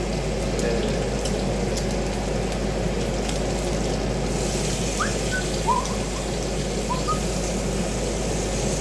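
Bacon sizzling steadily in a frying pan, a constant frying hiss.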